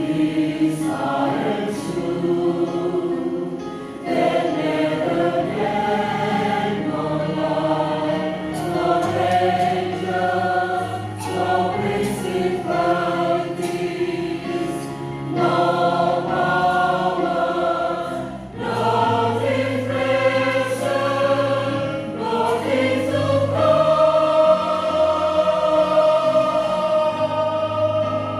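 Church choir singing a gospel song in parts, the voices moving through sustained chords and settling on a long held chord over the last few seconds.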